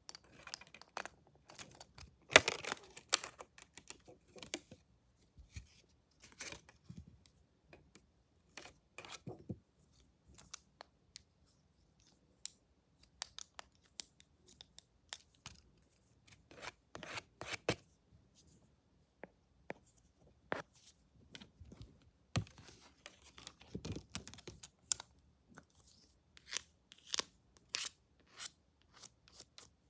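Close-up scissors snipping and tool handling for an ASMR haircut: scattered crisp clicks and short rustling bursts with gaps between, the loudest a rustle about two seconds in.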